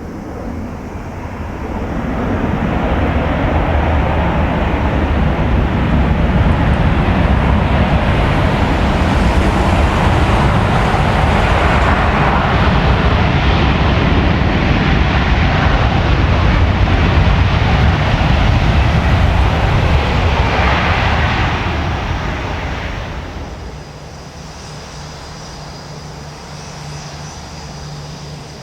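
British Airways Boeing 787-9's Rolls-Royce Trent 1000 jet engines on a landing pass. The engine noise swells over the first couple of seconds, stays loud for about twenty seconds, then fades to a quieter steady hum with a thin high whine near the end.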